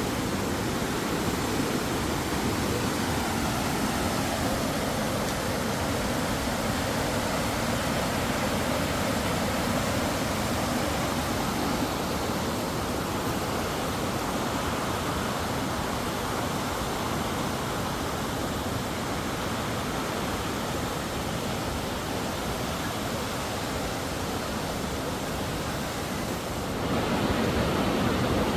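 Steady rushing of a mountain stream, with no distinct events, stepping up a little louder near the end.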